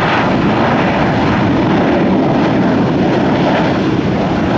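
Jet airliner landing on a wet runway: loud, steady engine and air noise.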